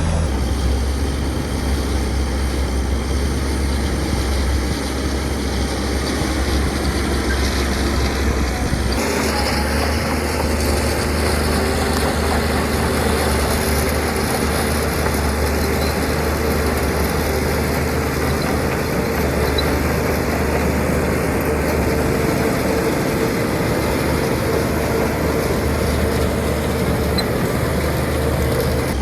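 Heavy diesel construction machinery running steadily, with a deep engine drone. The sound changes abruptly about nine seconds in, then carries on steadily.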